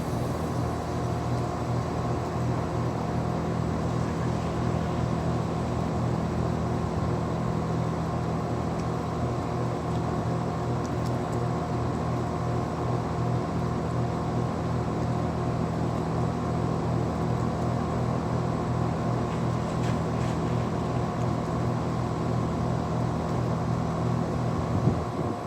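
2015 Carrier Comfort Series heat pump outdoor unit running steadily just after start-up on a new capacitor: a constant low compressor and fan hum with a few steady tones over it.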